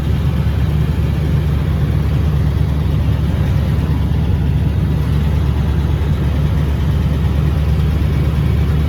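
Ranch truck engine idling steadily through a newly installed muffler and exhaust pipes, giving a deep rumble with no exhaust leak audible.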